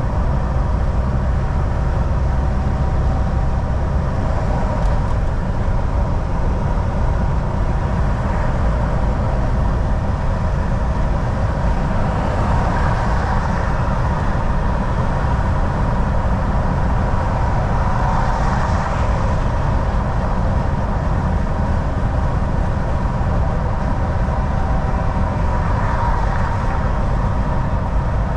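Volvo VNL 760 semi truck cruising on the highway, heard from the cab: a steady low rumble of engine and road noise with a constant hum above it, swelling slightly a few times.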